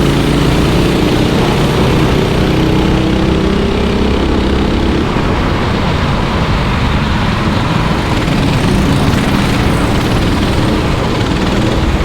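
Racing kart engines running on the circuit as karts pass, a nearby engine's drone clear for the first few seconds before fading into the general engine noise.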